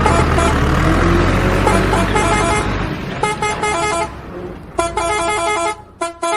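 A heavy vehicle's engine rumbles, then about three seconds in a vehicle horn honks in a string of short, pitched blasts.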